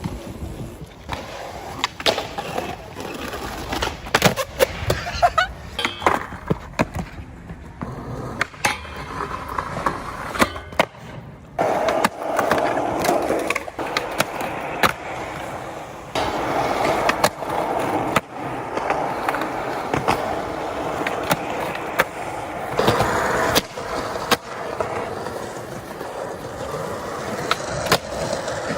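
Skateboard wheels rolling over pavement, with many sharp clacks and knocks of the board popping and landing as tricks are tried, some louder stretches of rolling in the middle and later part.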